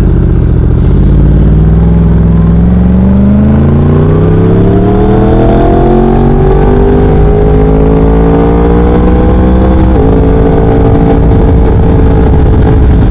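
2017 Yamaha R1's inline-four running through a Leo Vince 3/4 exhaust as the bike accelerates: the engine note climbs steadily in pitch for about nine seconds, drops a step at a gear change near the end, then holds steady.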